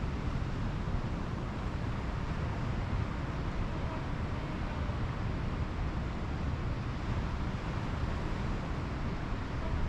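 Steady rush of Pacific Ocean surf on a beach, with a heavy low rumble and no distinct breaks.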